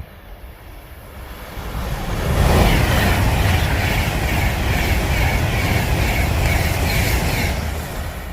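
Avanti West Coast express train passing at speed on the main line. Its rush builds over about two seconds, holds with a steady, evenly spaced clatter of wheels, then begins to fade near the end.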